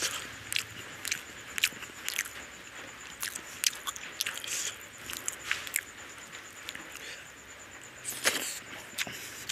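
Close-up wet chewing and lip smacks of someone eating rice and curry by hand: a run of short, irregular smacks, loudest about eight seconds in.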